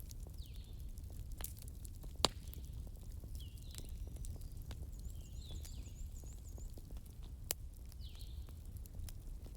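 Wood fire crackling in a fireplace: scattered sharp pops and snaps over a low rumble of the flames, with two louder pops about two seconds in and near seven and a half seconds.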